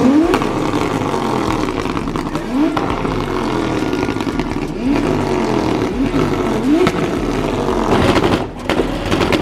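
Car engine revving repeatedly, its pitch climbing sharply with each blip over a steady engine rumble, with a couple of sharp cracks near the end.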